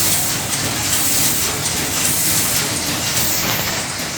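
Century-old steam engine running, with a steady hiss of steam.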